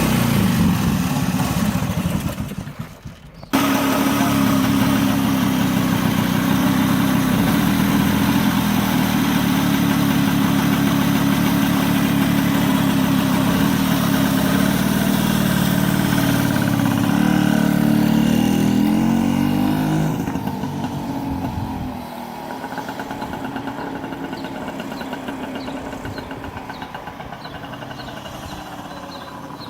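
1935 Francis-Barnett Seagull 250cc motorcycle engine running hard. It drops out briefly about three seconds in, then runs steadily and shifts in pitch. After about two-thirds of the way through it fades and stays much quieter, as the bike rides away.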